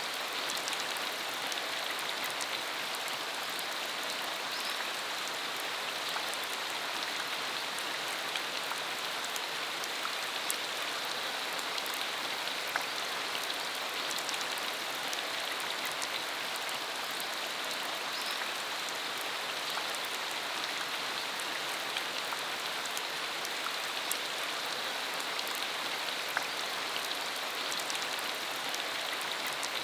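Steady rain falling on a dirt country road: an even hiss with many scattered close drop ticks.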